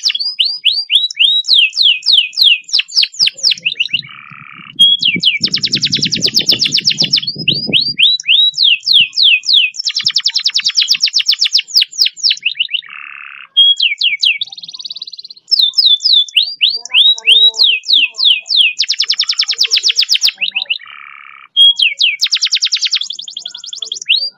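Domestic canary singing long rolling phrases: very fast trills of rapidly repeated notes alternating with runs of quick falling whistled notes, the phrases following one another with short gaps. A low rumble runs underneath from about five to eight seconds in.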